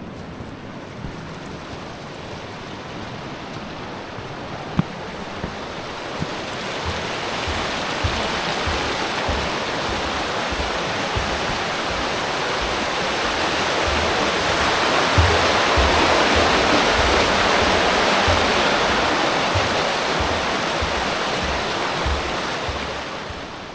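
Rushing water that builds up, is loudest a little past halfway and fades away near the end, with irregular low thuds of footsteps on a boardwalk underneath.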